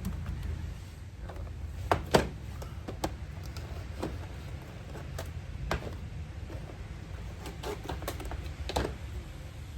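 Scattered small clicks and taps of tools and wires being handled during soldering work, the sharpest pair about two seconds in, over a steady low hum.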